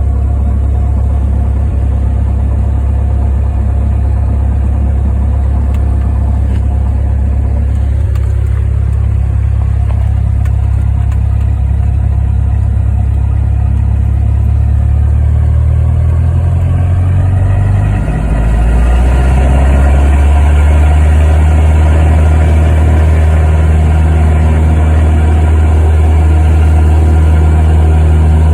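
Cessna 172's piston engine and propeller running steadily at low power. About two-thirds of the way through, the engine note shifts and settles louder and fuller, as the power comes up for the takeoff.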